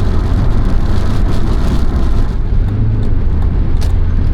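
Car driving at road speed, a loud steady low rumble of engine and tyre noise heard inside the cabin, with a few faint ticks over it.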